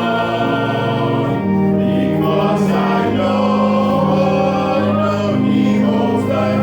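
Church congregation singing a hymn together, voices holding long notes that change in steps.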